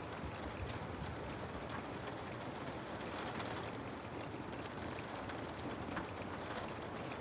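Steady rain falling, an even hiss with scattered faint drop patters.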